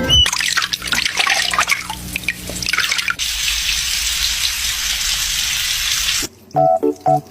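Tap water running into a sink where a pet bird is bathing: uneven splashing for about three seconds, then a steady even pour. About six seconds in it cuts off suddenly to background music with a steady beat.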